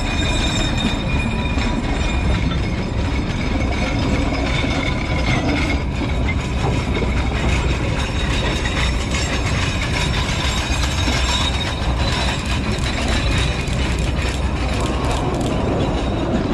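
Log-laden flatcars of a narrow-gauge logging train running along the track, rumbling and clattering steadily, with a high wheel squeal that fades after about five seconds.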